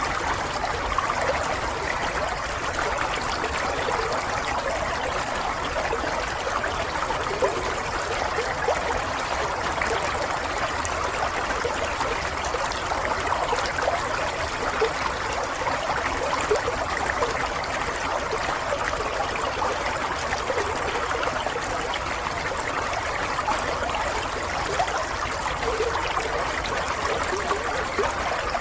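Running water flowing steadily like a small stream: an even rush with many small bubbling splashes through it.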